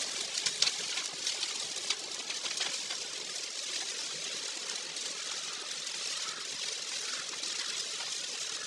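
Steady hiss of a car driving through a heavy typhoon downpour on a wet road, with a few sharp ticks in the first two seconds or so.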